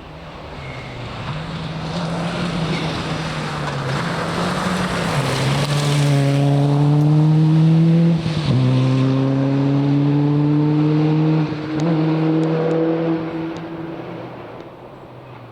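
Rally car approaching and passing, accelerating up through the gears, its engine pitch climbing and dropping back at each upshift. It is loudest about eight seconds in, then fades as it goes away.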